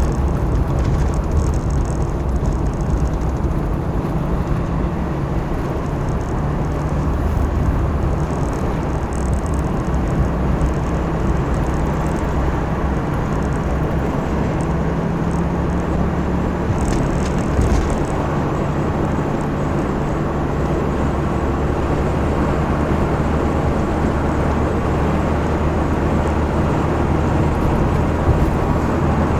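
A motor running steadily with a constant low hum that neither rises nor falls.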